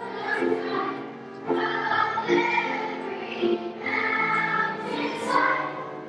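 Elementary school children's choir singing, holding notes that change about once a second.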